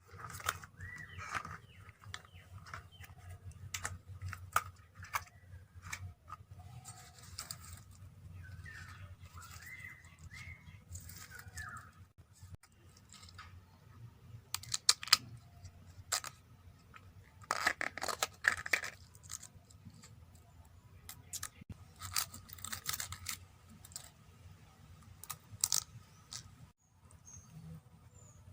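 Irregular sharp clicks and short crisp tearing or scraping sounds of hands working food, over a steady low hum, with a few short chirps.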